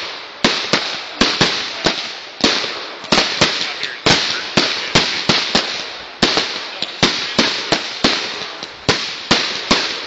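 Consumer fireworks going off in rapid succession: a steady run of sharp bangs, about two or three a second, each trailing off in a hiss of crackle.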